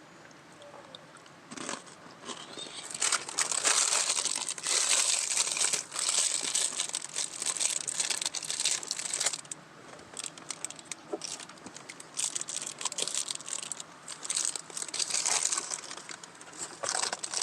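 Crinkly snack packaging being handled: a long run of crinkling and rustling that is busiest in the first half and picks up again near the end.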